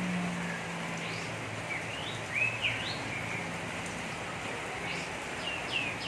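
Oriental magpie-robin calling: a few short, sweeping chirps, bunched together about two and a half seconds in and again near the end, over a steady background hiss.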